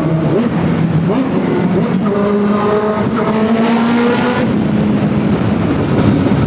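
Kawasaki ZX10R superbike's inline-four engine pulling under throttle, rising in pitch and then easing off about four and a half seconds in, over a steady rush of wind noise.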